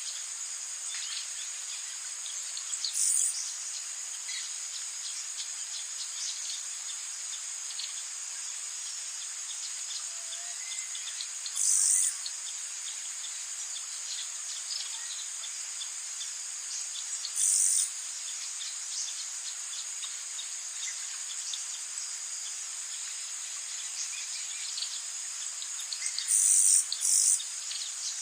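Rainforest ambience: a steady, high-pitched insect chorus. Over it come short, louder high calls, once every several seconds and then twice in quick succession near the end, with faint scattered chirps between.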